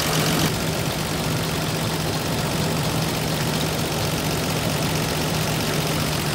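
Toyota Land Cruiser FJ80's 3F-E 4.0-litre straight-six idling steadily, left unrevved just after a fresh oil fill so the oil circulates before the level is checked.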